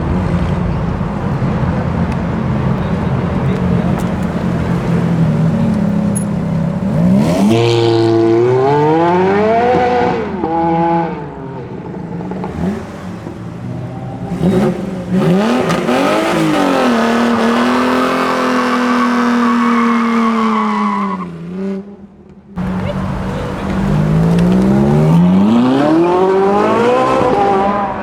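Car engines accelerating hard, one after another, each rising in pitch as it revs up through the gears, after a steady low engine drone at the start. Near the middle one engine holds a steady note, then the sound breaks off suddenly before another car accelerates away.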